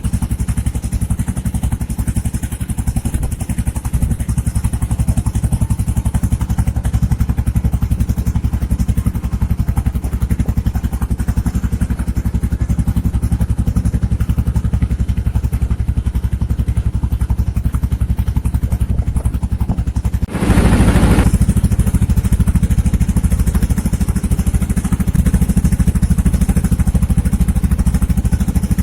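Small boat's engine running steadily at cruising speed. About two-thirds through there is a brief rush of noise, after which the engine sounds louder.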